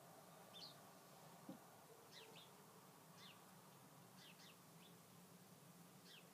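Near silence: faint room hum with a small bird's short, high chirps, each falling in pitch, repeated irregularly every half second to a second.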